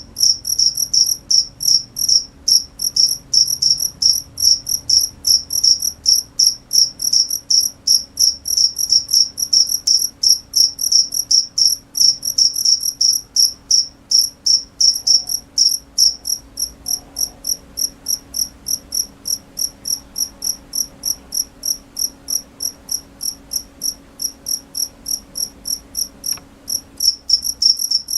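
Cricket chirping steadily: a high-pitched chirp repeated evenly, about four times a second.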